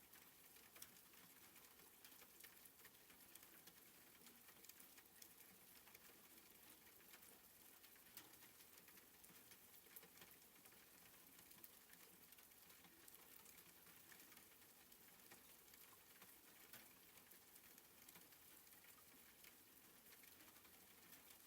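Faint soft rain: an even light hiss with a dense, irregular patter of tiny drops.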